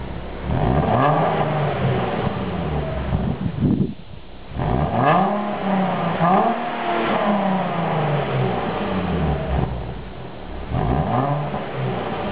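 Nissan 370Z's 3.7-litre V6 revved several times through its stock exhaust with high-flow cats and a Y-pipe, the pitch climbing and falling back with each blip of the throttle, with a brief drop-off about four seconds in and quick repeated blips just after.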